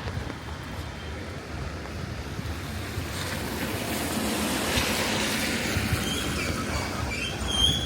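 Steady hiss of rain and wet traffic, swelling as a vehicle passes on the wet road about halfway through. Near the end, high squealing tones come in.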